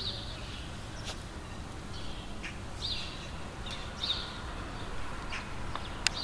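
A bird calling in short, high chirps, repeated about once a second, with a few faint clicks.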